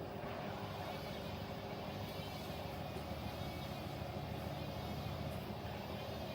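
Front-loading washing machines running, a steady motor hum with a faint whine that wavers up and down.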